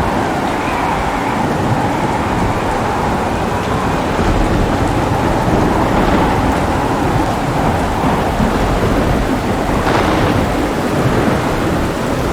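Heavy rain falling steadily, with low rolling thunder rumbling underneath; a few sharper crackles stand out near the middle and near the end.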